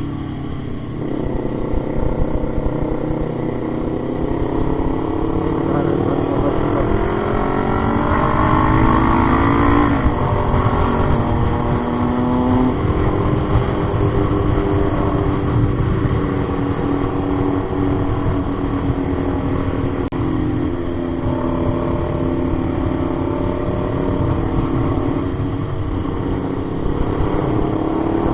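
Motorcycle engine under way, its pitch climbing steadily for several seconds as it accelerates, dropping sharply at a gear change about ten seconds in, then running at a fairly steady speed, over a low rumble of wind and road noise.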